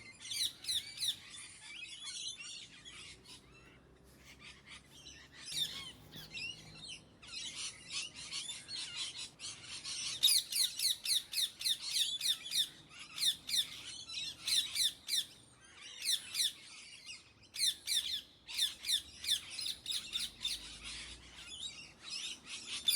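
Indian ringneck parakeets calling in rapid runs of short, high squawks, several a second. After a quieter stretch of a few seconds, the calls grow louder and denser.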